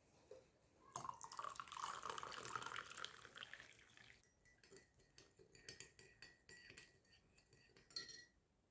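Liquid pouring for about three seconds, then a run of light clicks and taps.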